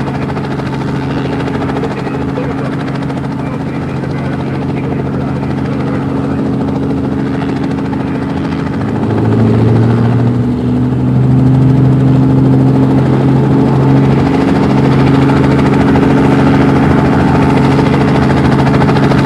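Helicopter running, a steady drone of rotor and turbine tones. About nine seconds in it grows louder and its pitch rises. It cuts off abruptly at the end.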